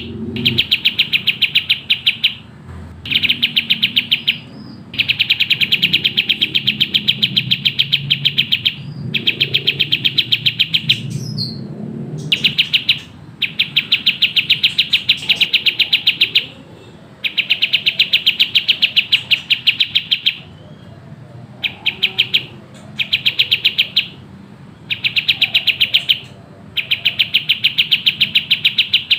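Kapas tembak songbird in full, fast song: bursts of rapid, tightly packed, high, stuttering notes, each lasting one to four seconds, about a dozen of them with short pauses between.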